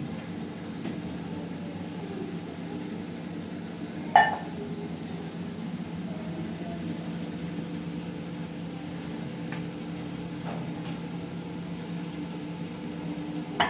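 A few light clinks of kitchenware, the loudest about four seconds in, over a steady low hum.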